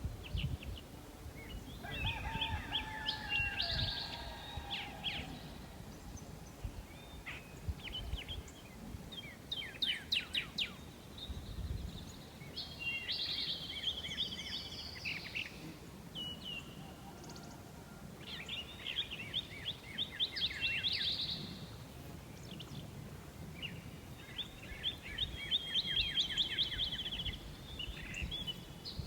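A songbird singing, delivering a phrase of rapid trills and quick sweeping notes about every five or six seconds, over a low background rumble.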